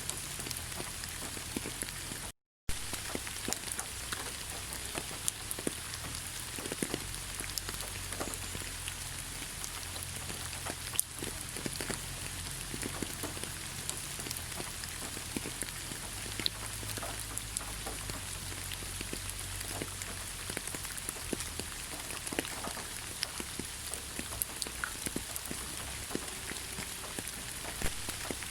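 Rain falling in a forest: a steady hiss with many close drops ticking irregularly. The sound cuts out completely for a moment about two and a half seconds in.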